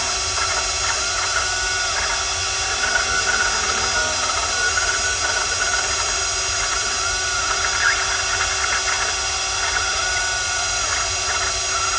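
Small motor-driven machine whining steadily, its pitch repeatedly rising and falling in short arcs, while the new gearbox cover gasket is being made.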